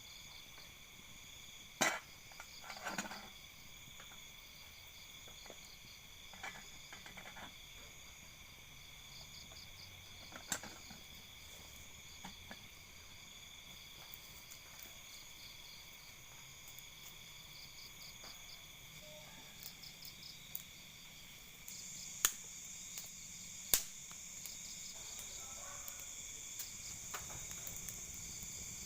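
Night-time chorus of insects, crickets among them, chirring steadily in several high pitches, one of them pulsing. A few sharp clicks or snaps stand out over it, two of them close together near the end.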